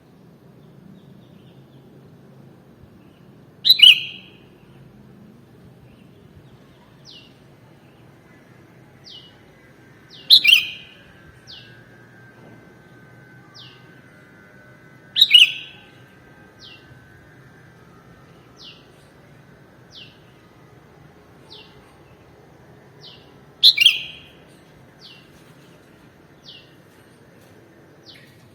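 Sooty-headed bulbul (kutilang) calling: four loud, sharp calls several seconds apart, with faint short chirps repeating about once a second between them.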